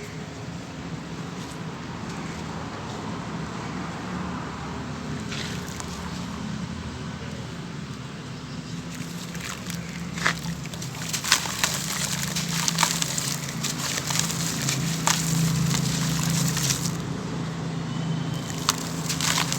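Chunks of dry sand-cement crumbling and dissolving in water, with a steady fizzing hiss; from about halfway in, many sharp crackles and pops as pieces break apart.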